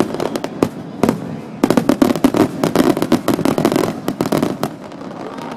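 Fireworks bursting in rapid volleys of sharp cracks: a short flurry at the start, then a longer, denser run from about a second and a half in that thins out near the end. The bursts are picked up by a digital camera's microphone, which makes the booms sound odd.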